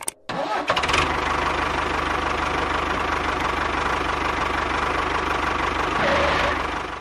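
A small engine starting and running steadily with a fast, even knocking, then winding down just before the end.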